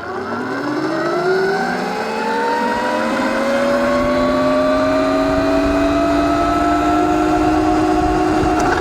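Evoltrix X7 electric pit bike's mid-drive motor whining under full throttle. The whine rises quickly in pitch, then levels off as the bike tops out at about 30 mph, with wind rushing over the microphone.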